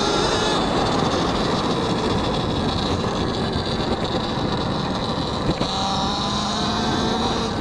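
Talaria X3 electric dirt bike being ridden: a steady electric motor whine over heavy wind rush on a helmet mic and tyre noise, the whine rising in pitch as the bike speeds up later on.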